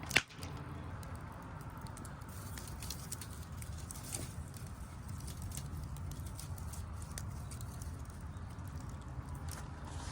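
Garden wood fire crackling, with faint scattered pops over a steady low rumble; one sharp, loud click right at the start.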